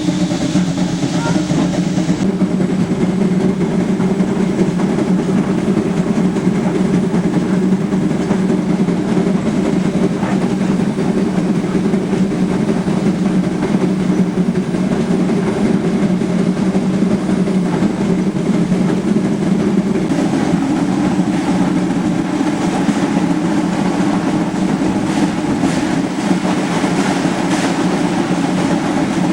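Heisler geared steam locomotive working steadily as it pushes a passenger train, its exhaust and the train's wheels on the rails making a loud, continuous rumble. A few sharp clanks come near the end.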